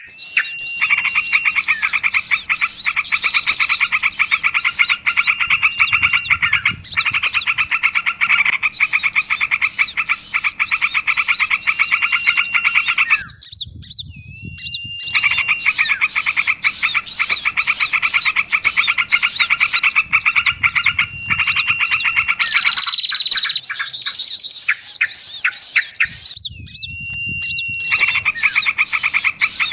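Dense, loud chorus of small songbirds' rapid chattering chirps and trills, several birds layered over one another, with a couple of brief lulls in the lower calls. It is a bird-lure call mix of the kind used to draw small birds in, such as noisy prinia alarm chatter.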